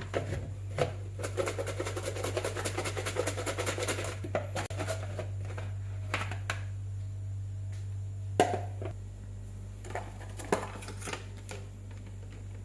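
Kitchen work sounds: a fast run of light clicks and taps for a few seconds, then a few separate sharp knocks, over a steady low hum.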